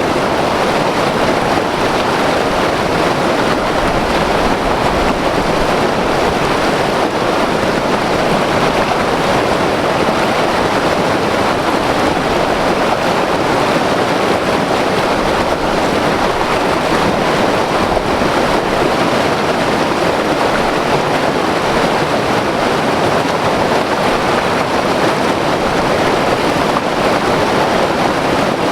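White water river rushing over rocks, a steady, loud, unbroken roar of churning water.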